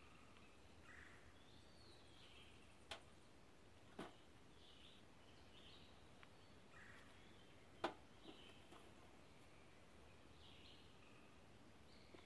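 Faint bird calls and chirps from the surrounding woods, broken by three sharp clicks or taps as hands work cordage around a stiff bark tube; the loudest click comes about eight seconds in.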